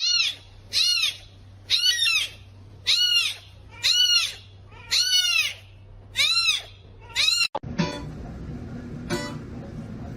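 A small animal crying about seven times in a row, each cry short and high, rising then falling in pitch, about a second apart. Then the sound cuts to a different scene with a few sharp clicks.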